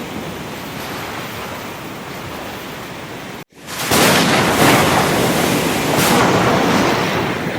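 Sea surf washing steadily. A little past halfway it cuts out for a moment, then comes back louder with several waves crashing.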